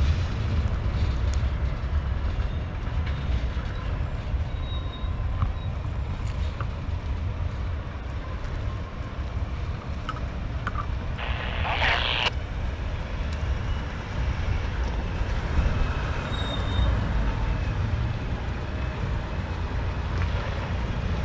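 LORAM crosstie maintenance-of-way train, gondolas loaded with ties, rolling slowly past with a steady low rumble. A short hiss lasting about a second comes about halfway through.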